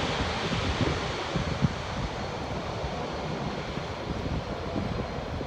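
Boeing 767-300 jet engine noise fading steadily after reverse thrust on landing, with wind rumbling on the microphone.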